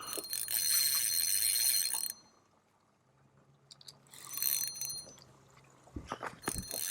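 Fishing reel drag buzzing as a hooked longnose gar runs and pulls line off the reel. The buzz cuts off suddenly about two seconds in, comes back briefly in the middle, and starts again with clicks near the end.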